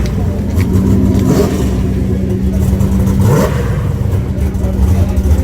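Drag cars' engines, a nitrous G-body Monte Carlo and a turbocharged Mustang, running at a lumpy, rumbling idle while they stage, with a steady hum over the low rumble.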